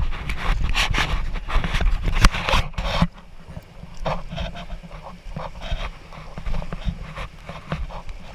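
Raft paddles dipping and splashing in river water, with wind buffeting the microphone. It is loud and gusty for about three seconds, then drops suddenly to quieter, separate splashes.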